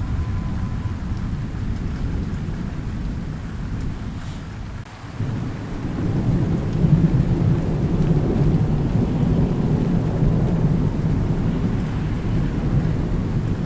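Thunderstorm: low rolling thunder over steady rain. The rumble fades to a short lull about five seconds in, then a fresh roll of thunder builds and carries on under the rain.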